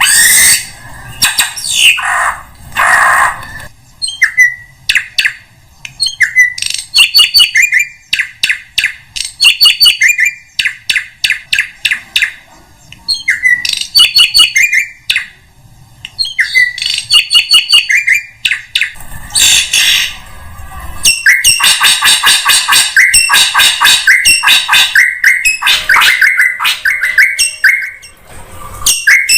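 Drongo calls, a bird-lure recording. Harsh rasping notes come first, then repeated phrases of quick chattering notes with short rising whistles, and a dense run of rapid notes near the end.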